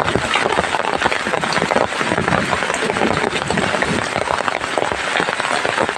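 Heavy rain falling steadily, a dense, even patter of many drops striking a surface.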